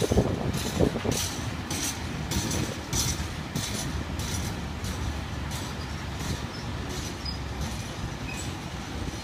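Loaded train of MRA side-tipping ballast wagons rolling past on steel wheels: a steady low rumble with a regular rhythmic hiss and clatter from the wheels, about one and a half beats a second, that fades out after about four seconds.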